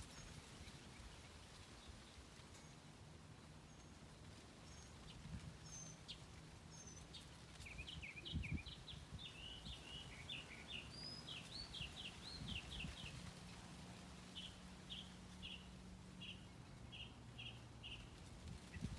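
Songbirds chirping faintly: a quick run of short chirps starting about eight seconds in, then a string of evenly spaced notes near the end, over a faint steady low hum.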